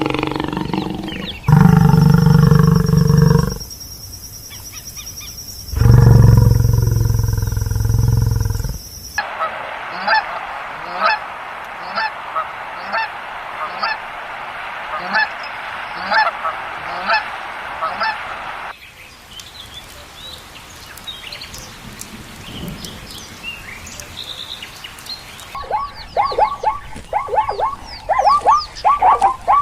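Geese honking in a run of short clips: two long, low calls early on, then short honks repeating about once a second, a quieter stretch with only a few calls, and a quick run of calls near the end.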